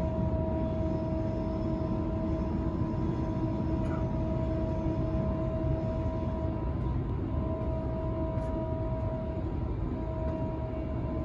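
Sydney Trains Waratah A set electric train running at steady speed, heard from inside the carriage: a steady low rumble of wheels on track with a whine from its IGBT-VVVF traction equipment holding one pitch.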